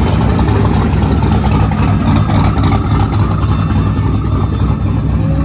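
Car engine running loudly with a steady deep rumble, guessed to be an eight-cylinder in a Grand National-style car. That sound suggests it is not a genuine Grand National, which came with a turbo V6.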